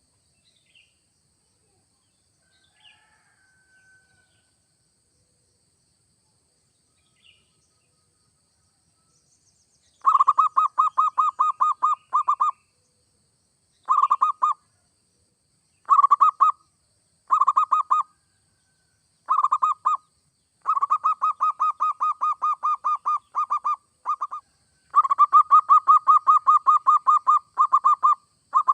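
Zebra dove (perkutut) singing: repeated phrases of rapid staccato cooing notes, each phrase a fast run of pulses lasting half a second to about three seconds. The song starts about ten seconds in, after near quiet with a few faint chirps.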